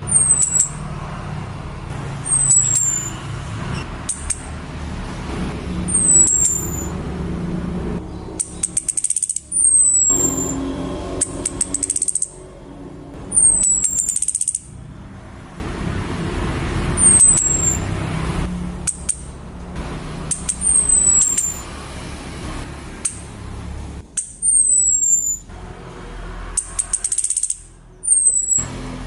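Female orange-headed thrush giving thin, very high, downslurred call notes about every two seconds, with short high chattering bursts between them: a lure call meant to set a male singing. A steady low rumble lies underneath.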